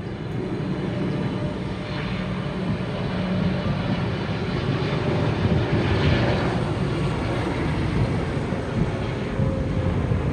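Jet engine noise from a Boeing 777-300ER with GE90-115B engines passing the airfield. It is steady and loud, grows to a peak about six seconds in, then stays high.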